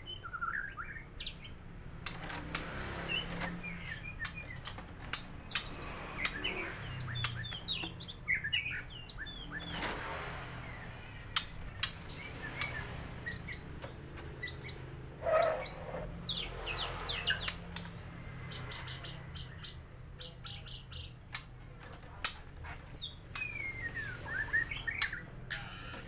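White-rumped shama (murai batu) singing a fast, varied song full of mimicked calls, with quick rising and falling whistles and sharp clicks.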